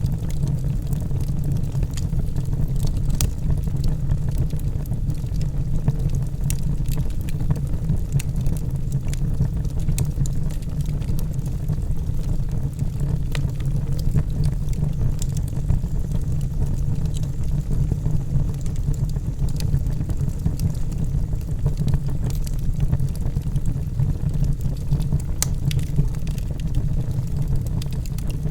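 Logs burning in a fireplace: a steady low rumble from the fire, with scattered sharp crackles and pops.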